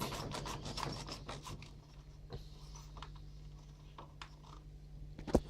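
Rapid small clicks from working the Whirlpool microwave's touchy timer control to add cooking time, thick at first and then sparser, with one sharper click near the end. A low steady hum runs underneath.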